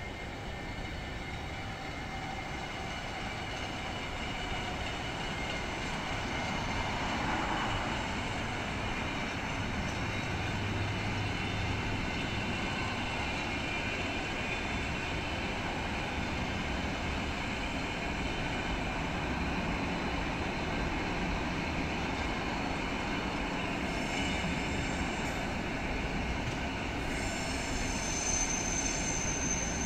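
A train running on the rails, its rumble building over the first several seconds and then holding steady, with a thin high wheel squeal near the end.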